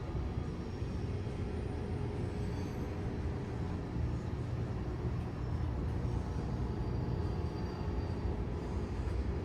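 A passing train's low, steady rumble.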